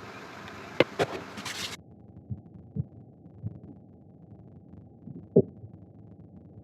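Knocks and dull thumps from work on a wooden bowl's base: a steady machine hiss with two sharp knocks, then, after the sound turns abruptly muffled about two seconds in, a few dull thumps, the loudest near the end.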